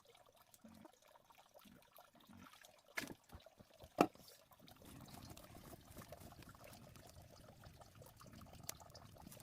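Two sharp knocks about a second apart, the second louder, then a steady, faint trickle of water.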